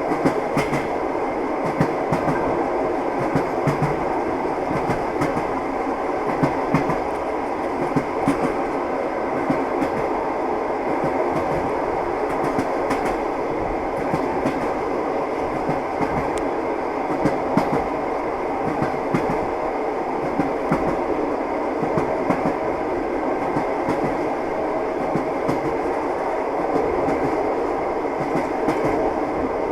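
Moving passenger train's wheels clattering over rail joints, a steady running rumble with short repeated knocks.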